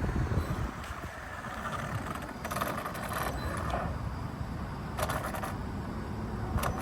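Motor vehicle noise: a steady low rumble with a few brief hissing bursts, about two and a half and five seconds in.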